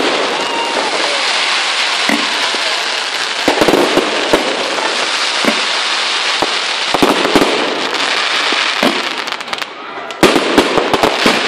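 Aerial firework shells bursting in a dense, continuous rush of crackling and popping, with louder sharp bangs scattered through it. It eases briefly a little before the end, then a quick run of bangs follows.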